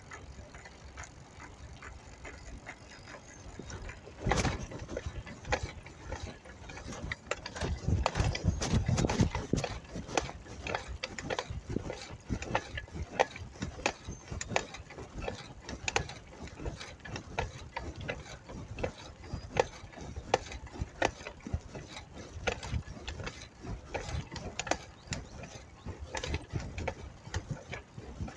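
Bicycle clicking and rattling mechanically as it rides, with a heavier knock about four seconds in and a stretch of low rumbling around eight to ten seconds in.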